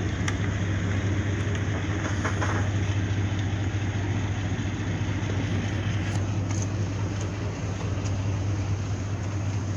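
A ship's diesel engine running with a steady low hum.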